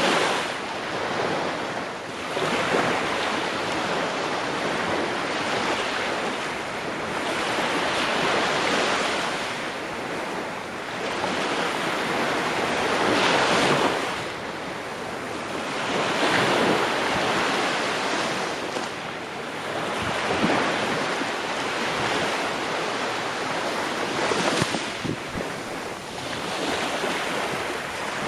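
Ocean waves breaking and washing on the shore, a continuous hiss of surf that swells and recedes every two to four seconds.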